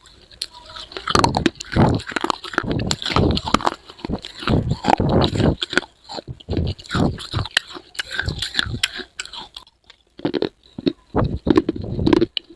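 Biting and chewing crunchy pieces of baked edible clay pot, a dense run of irregular dry crunches with a short pause about ten seconds in.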